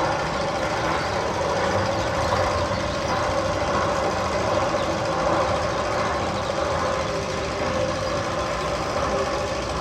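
Steady engine-like mechanical rumble with no breaks, one of the sound effects played over speakers in the Magnum XL-200 roller coaster tunnel.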